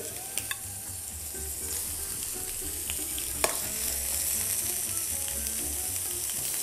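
Small whole cuttlefish sizzling as they sear in a hot stainless steel frying pan, with a steady hiss and one sharp tap about three and a half seconds in.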